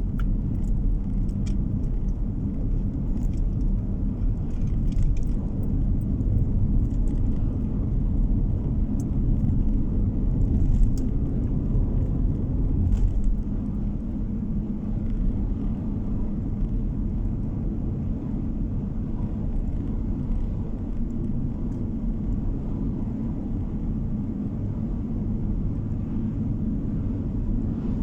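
Car driving along a road: a steady low rumble of tyre and engine noise, a little louder in the first half, with a few faint ticks early on.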